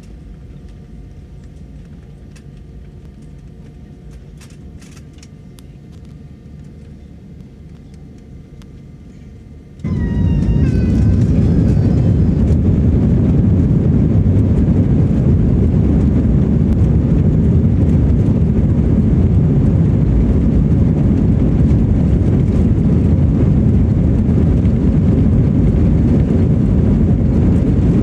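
Airbus airliner's jet engines: a low steady hum, then about ten seconds in a sudden jump to a loud, steady rumble.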